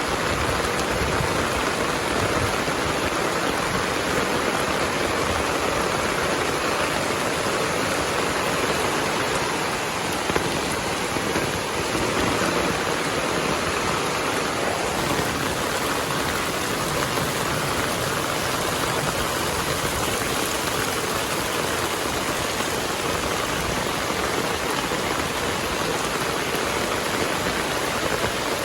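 Heavy rain falling steadily: an even, unbroken hiss of water.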